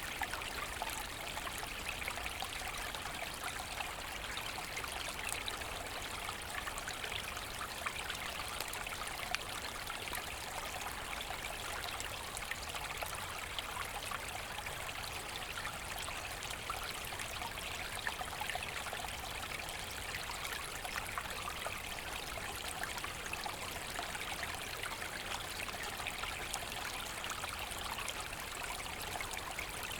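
Forest brook flowing steadily, water babbling and trickling over stones.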